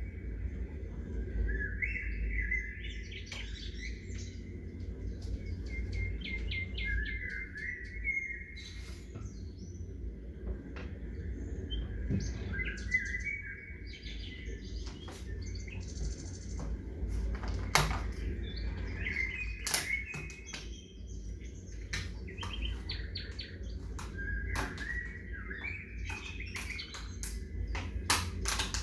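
Small birds chirping and singing in short repeated phrases, with sharp clicks scattered through and several together near the end, over a steady low rumble.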